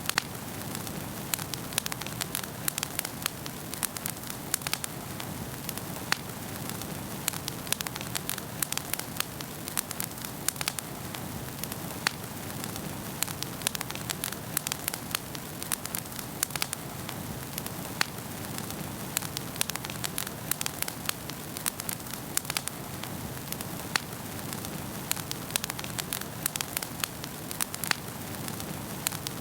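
Wood fire crackling in a fireplace: a steady low rush of flames with frequent irregular sharp pops and snaps.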